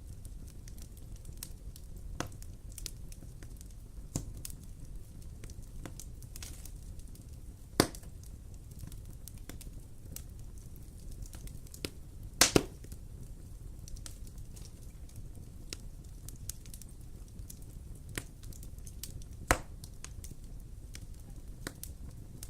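Wood fire crackling in a fireplace: scattered small crackles over a low steady rumble, with a few loud sharp pops, the loudest a quick double pop about halfway through.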